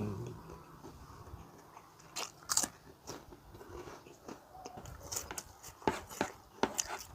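Crunchy ring-shaped corn snack being bitten and chewed close to the microphone: irregular crisp crunches, a couple about two seconds in and a denser run in the second half.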